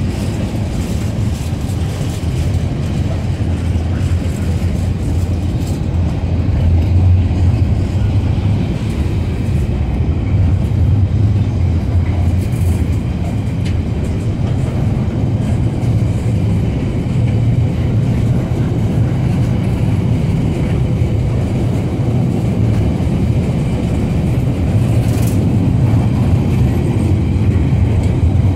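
Freight train of loaded container wagons rolling past close by: a steady low rumble of wheels on the rails with rattling from the wagons, holding level throughout.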